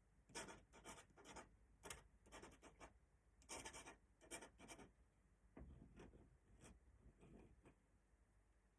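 Faint, short, irregular scratching strokes of an ink drawing tool moving across paper.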